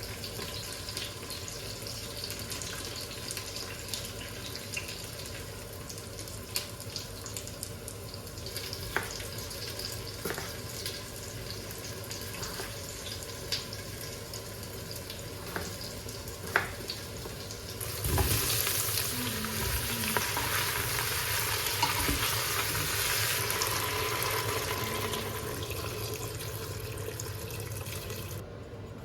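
Food frying in a pan: a light sizzle with scattered sharp clicks, then about two-thirds of the way through a much louder sizzle starts, easing off slowly before it cuts off near the end.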